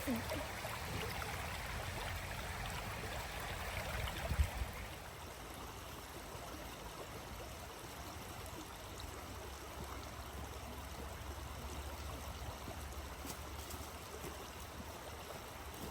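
Shallow creek water running steadily, with a single brief bump about four seconds in.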